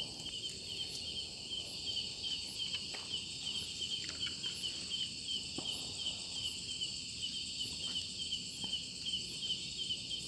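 Insects chirping steadily: a rapid, even run of short high chirps, about five a second, over a constant high insect hum, with a few faint clicks.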